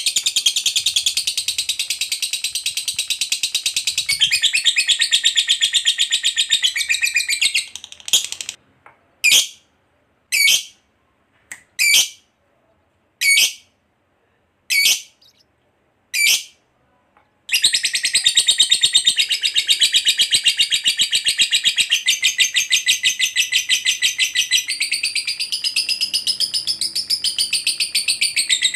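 Lovebird giving its long ngekek: a fast, continuous rattling chatter, high-pitched. About a quarter of the way in it breaks into seven short single chirps a little over a second apart, then the long chatter starts again and runs on.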